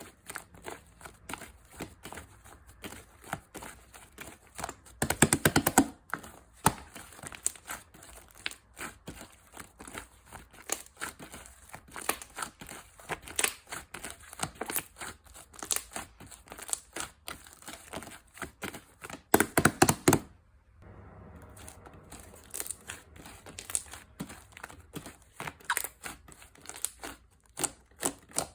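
Slime being pressed, poked and stretched by hand, with irregular clicky, crackling pops of trapped air. There are two louder spells of rapid crackling, about five seconds in and again near nineteen seconds.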